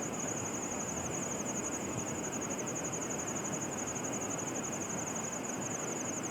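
An insect trilling steadily in a high, rapidly pulsing chirr, over the steady rush of stream water.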